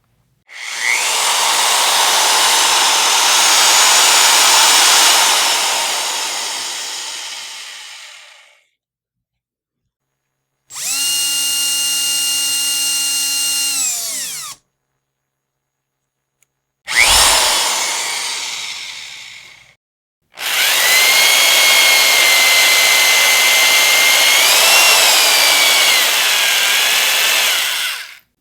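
Power drill run in four separate bursts with short pauses between them. Two long, noisy stretches of drilling fade or waver as the load changes. One shorter burst is a steady high motor whine, and one begins with a sharp knock and then fades.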